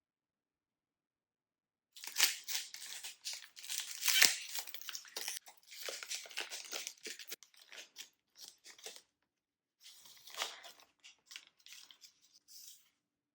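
Snack packaging handled up close: crinkling and tearing sounds as a wrapper is opened. The sounds start about two seconds in, are loudest in the first few seconds, pause briefly about two-thirds of the way through, then resume more sparsely.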